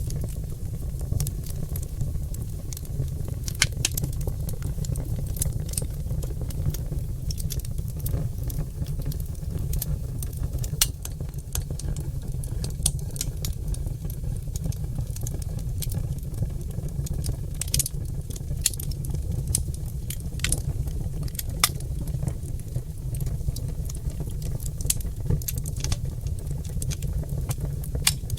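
Oak logs burning in a fireplace: irregular sharp crackles and pops over a steady low rumble from the fire.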